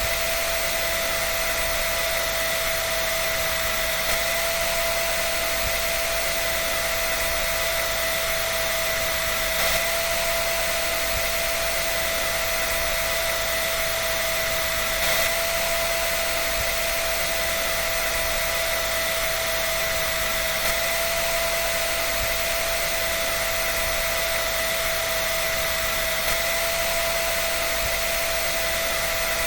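Hair dryer running steadily: a constant rush of blown air with a steady high motor whine.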